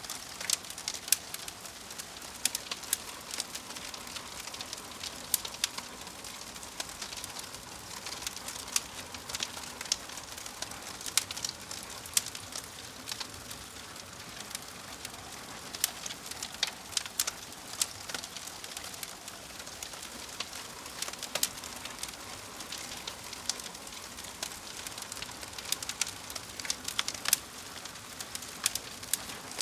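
Wood logs burning in a fireplace: a steady hiss with frequent sharp, irregular crackles and pops.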